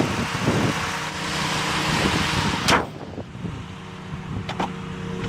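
A 2007 Mitsubishi Galant GTS's 3.8-litre V6 idling with a steady hum. A rushing noise sits over it, and a sharp sound about halfway through is followed by quieter audio. Two quick clicks come near the end.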